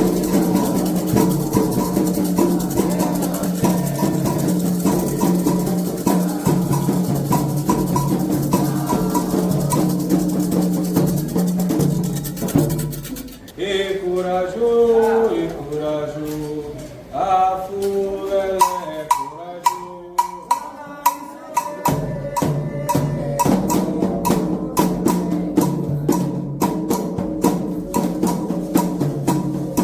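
Candomblé drumming with call-and-response singing. A group chorus sings over the drums and a bell, then breaks off about halfway. A solo voice sings a line alone, followed by a few seconds of sharp, evenly spaced drum strokes, and the full chorus and drums come back in.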